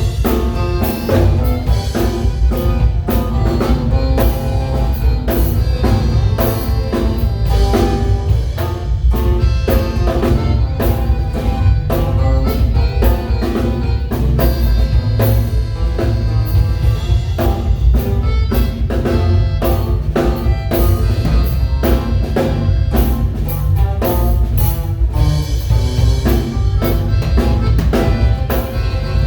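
A waila band playing live with no vocals: a drum kit keeps a steady beat under bass and melody instruments.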